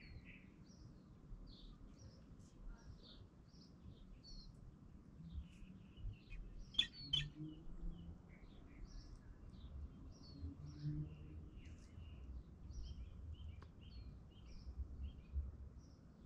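Small birds chirping and calling over and over, many short high notes, over a faint low background rumble. Two sharp clicks come close together about seven seconds in.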